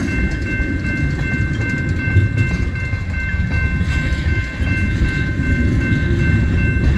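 Freight train of tank cars and covered hopper cars rolling past at a grade crossing: a steady low rumble of wheels on rail. Three steady high ringing tones sound over it.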